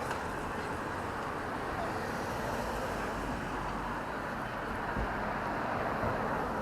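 Steady city traffic noise, a continuous even rumble and hiss of passing road vehicles.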